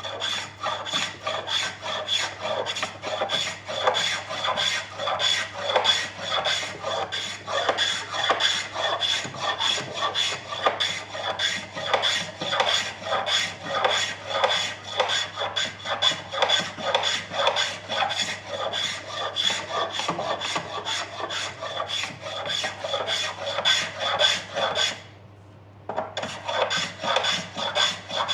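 Hand plane shaving along a snooker cue butt in quick, repeated strokes, about two a second, taking the corners off a new ebony splice to work it down to round. The strokes pause for about a second near the end, then start again.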